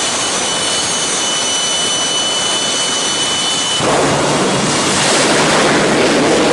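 Drag race car's engine roaring as a loud, steady rushing noise with a thin high whine; about four seconds in the whine stops and the roar grows louder and rougher.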